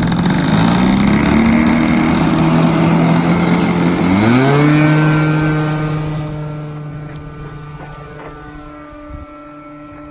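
O.S. GT15 15cc two-stroke gasoline engine of an RC Piper Cub running loud. About four seconds in, the engine note dips and swings back up, then holds steady while fading as the plane flies away.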